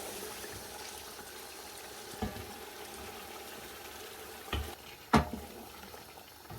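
Chicken pieces sizzling in a pot of tomato-and-spice masala, a steady hiss, with a few short knocks against the pot, the loudest about five seconds in.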